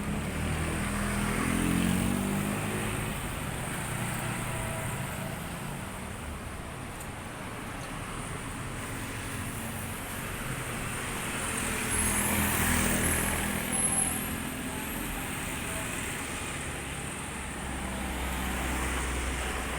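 Motorcycle engine running while riding through city traffic, with road and traffic noise around it. A louder stretch comes about twelve seconds in.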